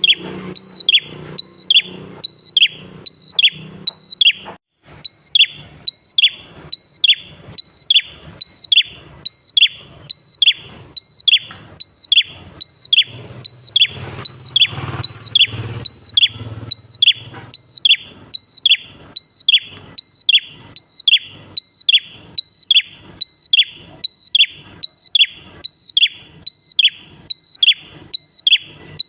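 Prenjak klawu (a prinia) singing a fast, monotonous series of identical notes, about two a second. Each note is a short high tone that drops sharply in pitch. There is a brief pause about four and a half seconds in.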